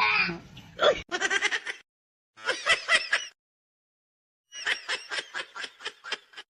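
A person laughing in three bouts of rapid pulses, starting about a second in, again around the middle, and from past halfway to near the end, with short silent pauses between.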